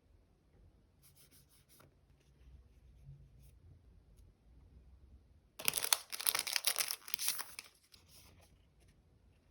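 A sticker being peeled off its backing sheet, a dense tearing sound lasting about two seconds past the middle, after a few seconds of faint crinkling and small ticks of the sheet being handled.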